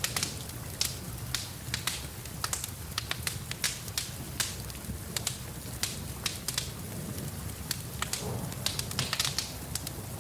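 Wood fire in a fireplace crackling, with many irregular sharp pops and snaps over a steady low rumble and a hiss of rain.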